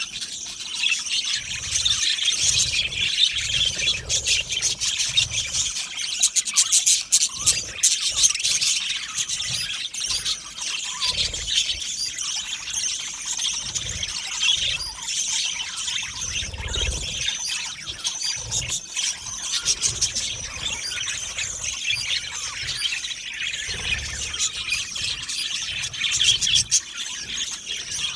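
A flock of budgerigars chattering and warbling continuously, many birds calling over each other in a dense stream of chirps and squawks.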